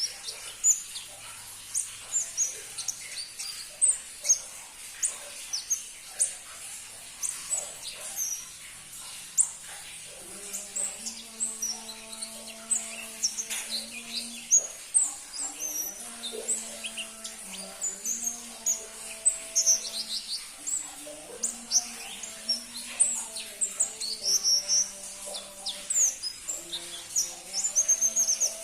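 Pentis pelangi (crimson-breasted flowerpecker) calling: many short, sharp, high-pitched chirps in quick, irregular succession.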